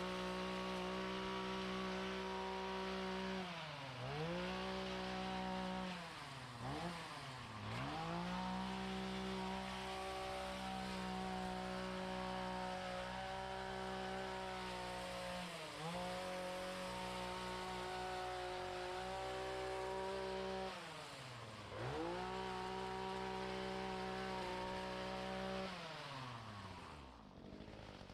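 Small two-stroke lawn equipment engine running at high throttle. Its pitch drops and comes back up several times as the throttle is let off and squeezed again, and near the end it winds down.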